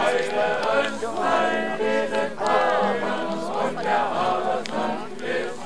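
A group of voices, mostly men's, singing a song together without instruments.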